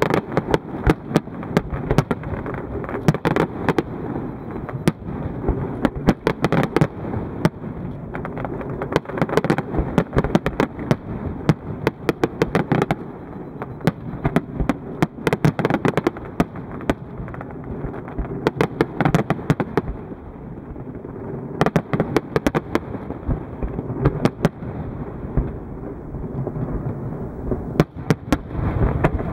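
Large fireworks display: a barrage of shells bursting, with sharp bangs and crackling coming thick and fast in several dense clusters over a constant rumble.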